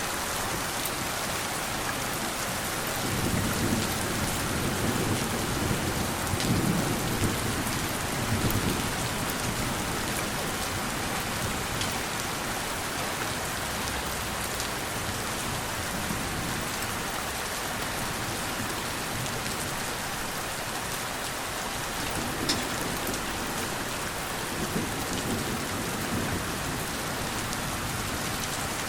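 Steady rain hissing, with gentle thunder rumbling low twice: a long roll a few seconds in and a shorter one near the end.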